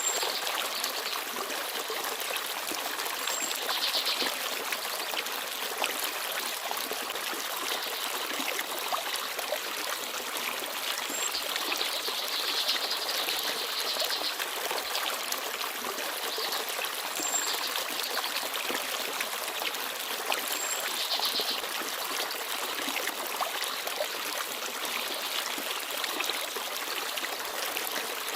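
Forest stream babbling and trickling steadily over rocks. A few brief high chirps from small birds come through now and then.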